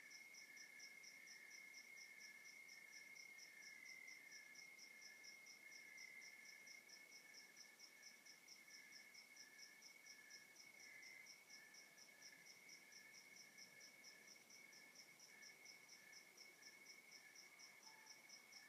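Faint chorus of night crickets: one steady high trill, with a second insect pulsing just below it and a higher call repeating evenly at about three pulses a second.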